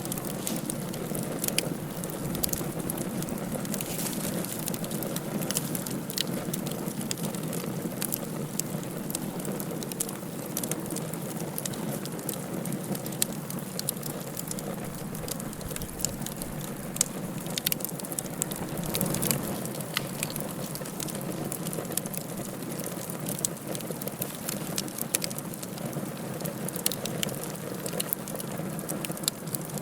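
Wood fire burning in a fireplace: a steady low rush with frequent, irregular sharp crackles and pops.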